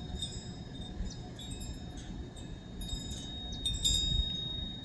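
Faint high ringing tones that sound like light chimes, with a few brighter strikes a little before the end, over a low steady background rumble.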